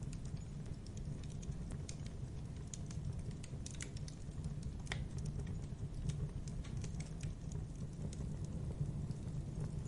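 Wood fire burning in a fireplace: a low steady rumble of the flames with irregular sharp crackles and pops, one louder pop about five seconds in.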